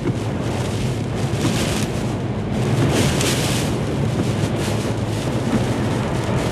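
Storm-force wind blowing hard across the microphone, buffeting it in gusts that swell and ease.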